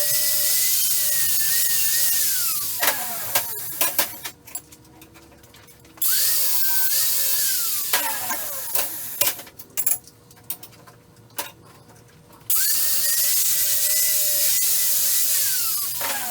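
Electric power tool's motor cutting steel pieces: it starts abruptly, runs with a steady high whine for a few seconds, then winds down with falling pitch, three times over. Sharp metal clicks and clanks come in the pauses between runs.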